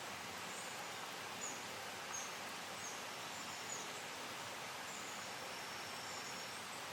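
Steady rush of a small mountain stream, with short high bird chirps repeating every second or so over it and a thin, high, steady insect-like trill now and then.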